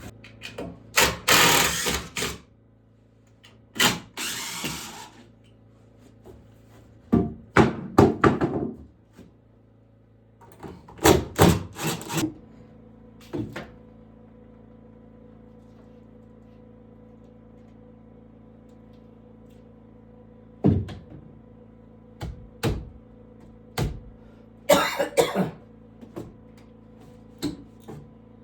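Intermittent woodworking sounds: short noisy bursts of a tool working wood, each lasting about a second, mixed with sharp knocks and thunks. A quieter gap falls in the middle, and a faint steady hum runs underneath.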